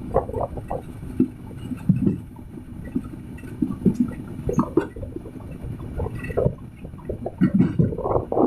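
Running noise inside a moving passenger train carriage: a continuous low rumble with irregular knocks and rattles.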